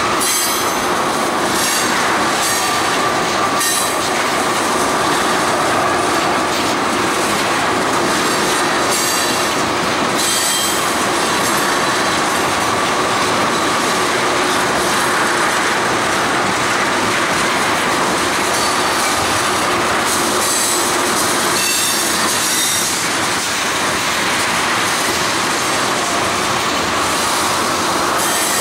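Freight train cars rolling past, steel wheels running over the rails with a steady clatter and short high-pitched squeals coming and going.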